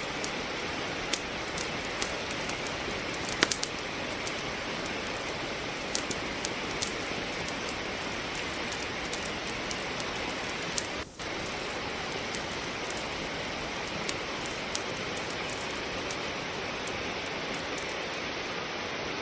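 Steady rain with the sharp, scattered crackles and pops of wood burning in a fireplace, a small cluster of louder pops about three and a half seconds in. The sound dips out briefly about eleven seconds in.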